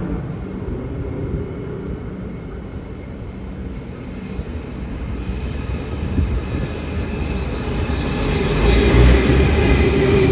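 V/Line passenger train rolling past, wheel and rail noise rumbling steadily and growing louder over the last few seconds.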